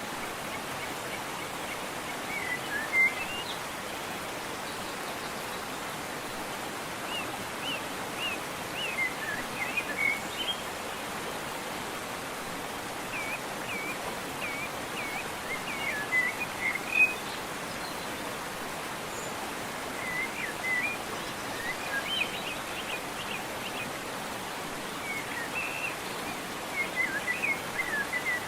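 Steady rush of a waterfall, with small birds chirping and calling over it in short clusters of quick high notes that come and go every few seconds.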